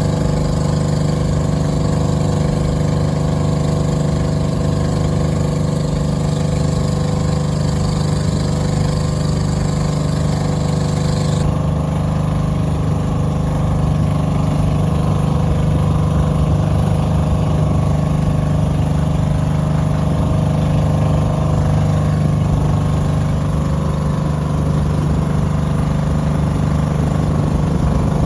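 A boat engine running steadily at an even pitch, with a constant low drone. A high hiss over it drops away suddenly about halfway through.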